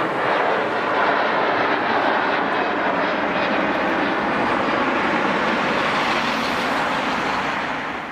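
Jet airliner engine noise, a steady broad rush that drops away near the end.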